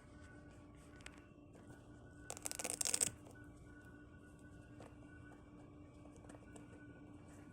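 Shoe-box packaging rustling in one short, loud burst of crinkling about two seconds in, over a faint steady hum.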